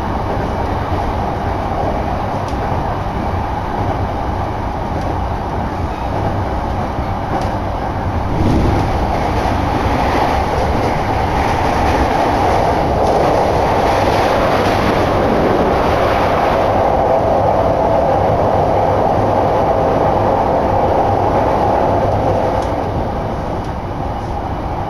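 Shonan-Shinjuku Line commuter train running, heard from inside the carriage: a steady rumble of wheels on rails and running noise, growing louder and brighter for about ten seconds in the middle.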